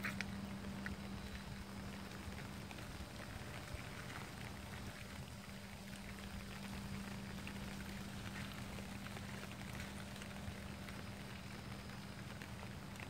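Steady rain falling on pavement, an even hiss with scattered faint drop ticks, over a steady low hum.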